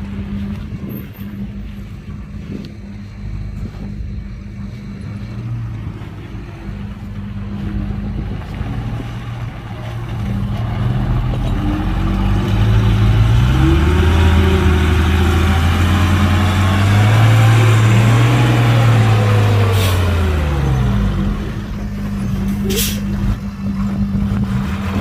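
Heavy diesel engine idling, then revved up about ten seconds in, held high for several seconds and let back down. Two short, sharp bursts of hiss near the end.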